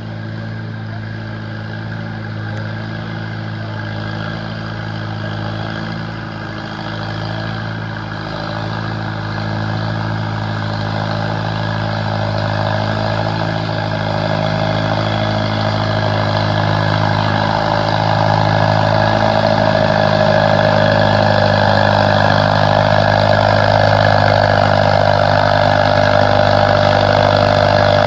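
Farmall M tractor engine running hard at a steady speed under the load of a pull, growing steadily louder.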